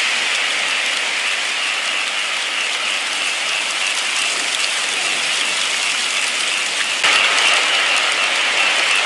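Steady rain: a dense hiss with scattered drops ticking through it. About seven seconds in it steps up slightly and abruptly in loudness.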